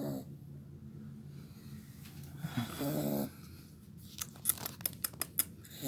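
A pitbull puppy snoring in its sleep: a low, steady snore with one louder snore about halfway through. A run of short clicks comes near the end.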